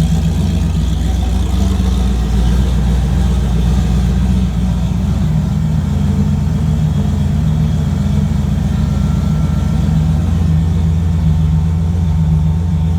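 Turbocharged Fox-body Mustang engine idling steadily as it warms up after a cold start, its exhaust note strongest in the low end and even in level throughout.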